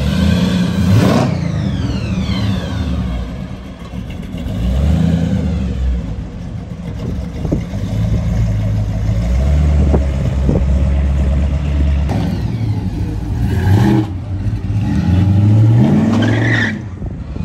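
Classic cars' engines with loud exhaust, pulling away slowly at low revs. Near the end an engine revs up and back down as the next car goes by.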